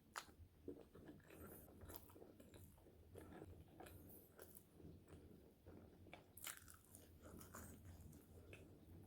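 Close-up eating sounds: bites into crispy fries and chewing, with scattered crunches and mouth clicks.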